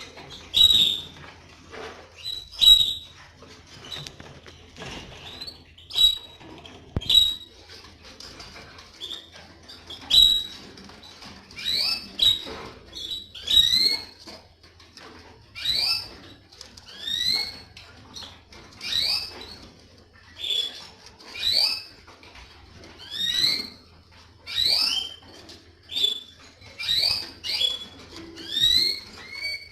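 Canaries giving short, rising chirping calls over and over, about one every second or so, with a few light clicks in between.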